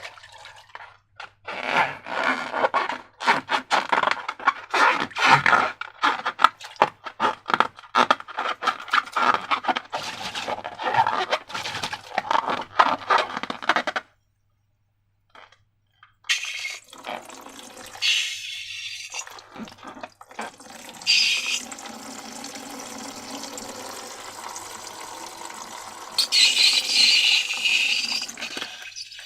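Wet, sticky slime being squished and stirred, with dense crackling and squelching clicks. After a short silence, a steadier wet sound of thick liquid being poured or filled, with a few louder hissing stretches.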